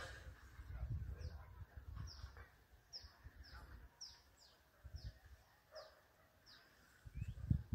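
Small birds calling: a string of short, high notes that fall in pitch, one or two a second, over a low rumble on the microphone that swells near the end.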